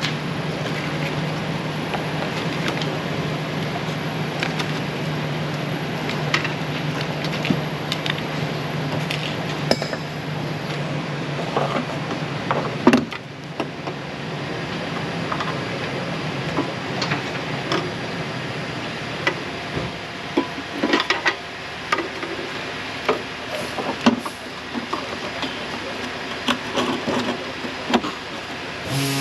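Hand tools and metal parts clinking and knocking irregularly while the engine's secondary air pumps are bolted in, over a steady shop hum that stops about halfway through.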